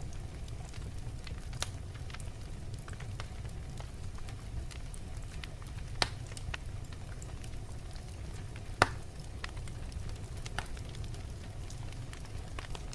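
Wood fire burning in a fireplace: a steady low rumble with scattered sharp crackles, and two louder pops about six and nine seconds in.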